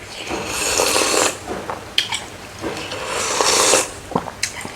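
Two long slurps, each about a second, of soup or gravy being sucked in from close to the microphone, with small mouth or spoon clicks between them.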